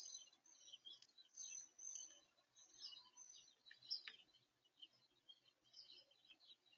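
Faint chirping and twittering of small birds at a feeder: many short, high chirps overlapping, with one louder, sharp note about four seconds in.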